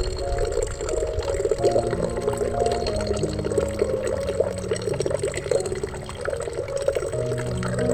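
Soft ambient music of held notes that shift every second or two, mixed with a steady sound of running, trickling water.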